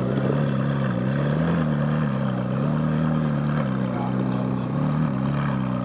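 Ferrari 458 Italia's V8 idling, its pitch rising and falling gently a few times under light throttle.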